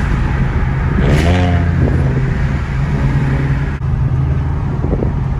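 Car engine running steadily with a low drone.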